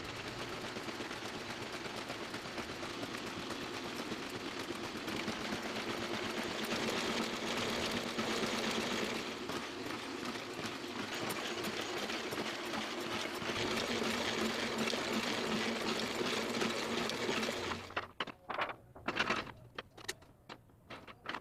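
Toko 810 small offset printing press running: a steady, fast mechanical clatter over a low hum. About eighteen seconds in it breaks off into a few uneven knocks.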